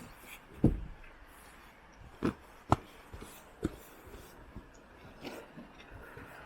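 Several separate sharp knocks and clicks, the loudest about a second in and again near the three-second mark, over a faint hiss.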